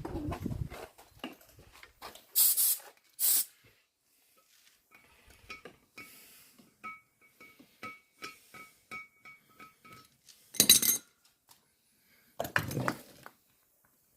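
Metal workshop handling noises: clinks and taps, two short hissy bursts about two and a half seconds in, a run of small even ticks with a faint ring, and two louder clanks near the end.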